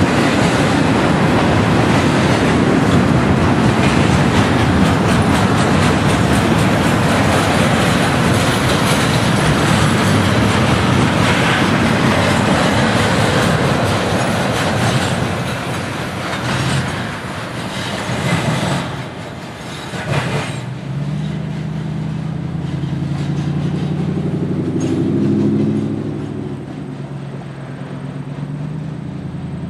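Norfolk Southern double-stack intermodal train cars rolling past on the rails: a loud, steady rumble of steel wheels with clickety-clack. About two-thirds of the way through the rumble falls away, and a quieter, lower steady drone with a few held tones takes over.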